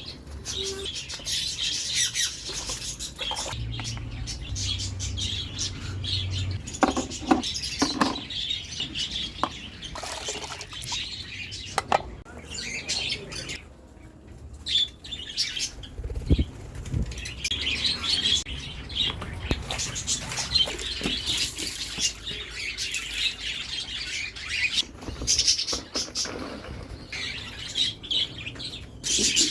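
Small aviary birds chirping and flapping their wings, with occasional knocks.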